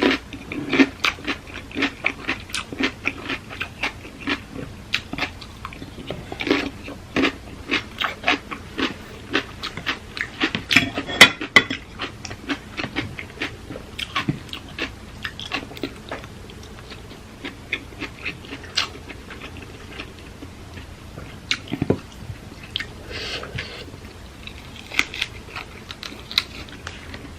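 Close-up chewing and crunching of papaya salad with octopus: many quick, crisp crunches, thick and steady for the first half, then fewer and more spaced out.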